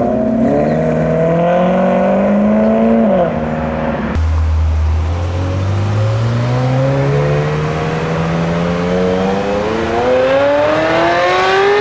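Car engine accelerating, its note rising for about three seconds and then falling at a gear change. After an abrupt cut about four seconds in, another engine pulls from low revs with a long, slow rise in pitch that falls again near the end.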